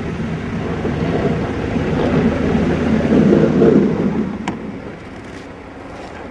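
A vehicle passing by: a low rumble that swells to its loudest about three and a half seconds in, then fades away, with a sharp click near the end.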